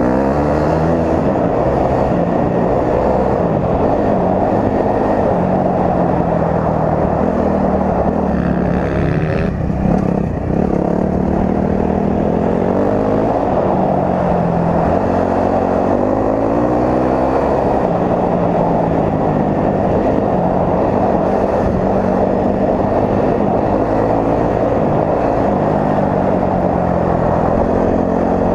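Honda CRF250R dirt bike's four-stroke single-cylinder engine running under way, its pitch rising and falling every couple of seconds as the throttle is worked, with a brief dip about ten seconds in.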